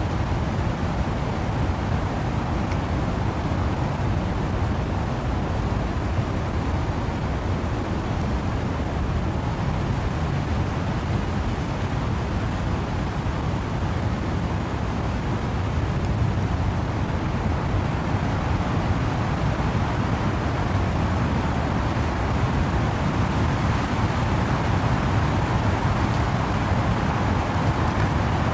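Wind and rain through trees: a dense, steady noise heaviest in the low rumble, swelling slightly a little past the middle.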